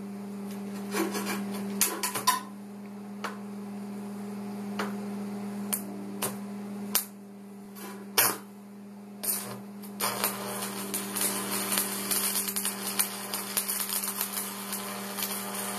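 Stick-welding arc crackling and sizzling over a steady electrical hum from the welder. The crackle stops about two and a half seconds in, leaving a few sharp isolated cracks, and comes back steadily about ten seconds in.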